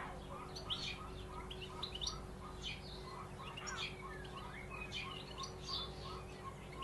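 Several birds chirping and singing, with many short high calls overlapping and a lower note repeated about three times a second throughout. A faint steady hum lies underneath.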